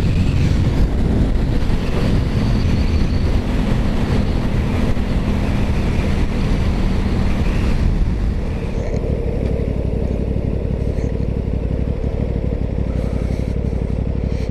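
2021 Aprilia Tuono 660's parallel-twin engine running steadily at highway speed, with heavy wind rush over the microphone. About eight seconds in, the sound drops a little in level and the engine note steadies.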